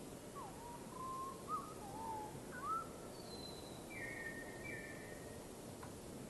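Bird calls: a run of short whistled notes sliding up and down in the first three seconds, then a few higher, flatter notes about four to five seconds in, over a steady background hiss.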